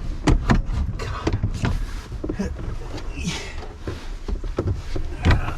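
Irregular knocks, clicks and rattles of hand work on a car's throttle pedal assembly as it is worked loose, with a brief scraping rustle about halfway through.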